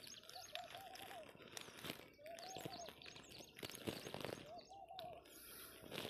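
Faint birdsong. One bird repeats a short rise-and-fall note in quick runs of three or four, with one longer drawn-out note in the middle, while higher chirps sound over it.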